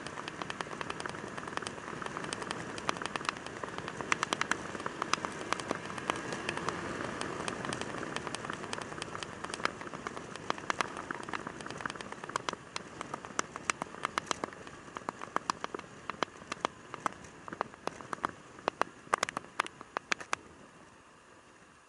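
Raindrops striking close to the microphone: many sharp, irregular ticks over a steady rushing background that fades toward the end. The ticks stop about twenty seconds in.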